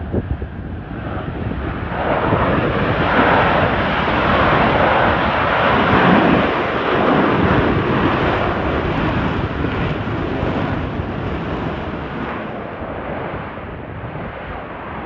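Jet engine noise from a Blue Angels F/A-18 Super Hornet flyby. It builds about two seconds in, peaks mid-way, then slowly fades.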